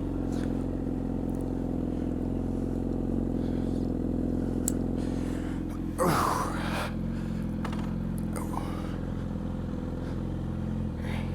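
Vehicle engine running at a steady speed, a constant low hum, with one brief louder sweeping sound about six seconds in.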